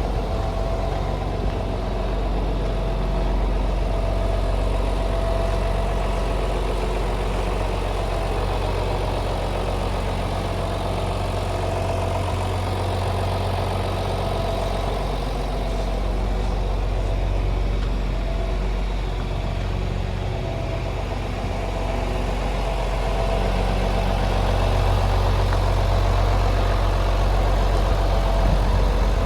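John Deere 4630 tractor's six-cylinder diesel engine idling steadily, growing a little louder in the last few seconds.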